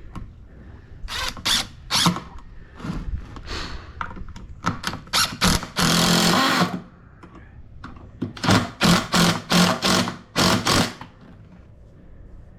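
Power drill run in short trigger bursts, with one longer run of about a second near the middle and a quick series of bursts later on: holes being drilled and screws driven into the workbench pieces.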